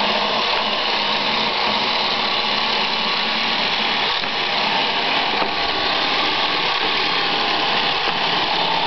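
Roomba robot vacuum running, its motor and brushes whirring steadily.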